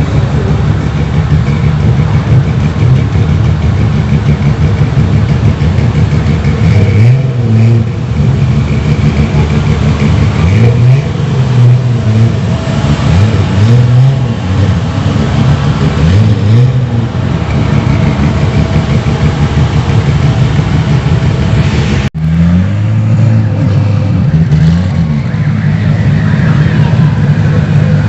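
Car engine running with repeated throttle blips, its pitch rising and falling in short revs several times, broken by a sudden brief gap about two-thirds of the way through.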